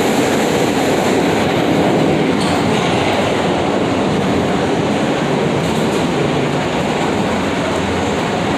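New York City subway F train heard from inside the car, running on the rails with a steady rumble and clatter of wheels and track. It eases slightly as the train nears Sutphin Blvd station.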